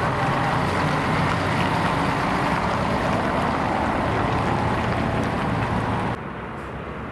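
Diesel MAN A23 articulated city bus running, a steady engine and road noise with a faint whine wavering in pitch. About six seconds in, the sound drops suddenly and becomes quieter and duller.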